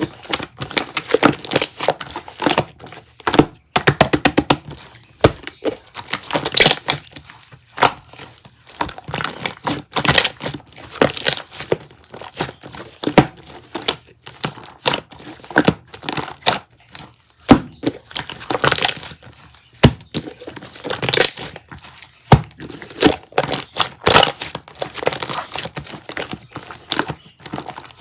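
Irregular crinkling and crackling, dense with sharp clicks and small knocks, as of something crumpled or handled at close range.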